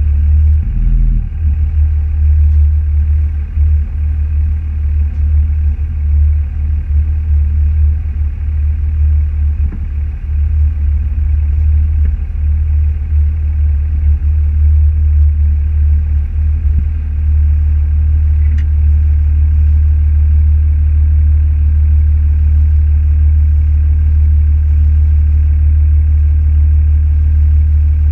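Steady low rumble of a car's engine and road noise heard from inside the moving car. It wavers during the first part and then holds steady.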